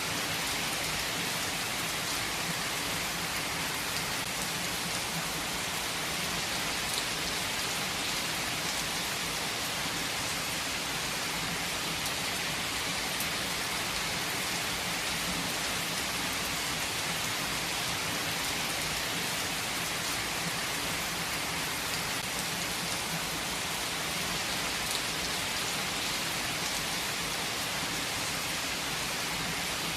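Heavy rain falling, a steady dense hiss of drops without let-up.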